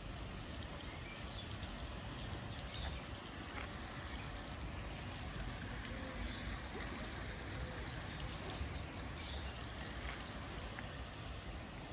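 Garden ambience: small birds chirping in short, high calls several times, with a quick run of chirps in the later part, over a steady low background rumble.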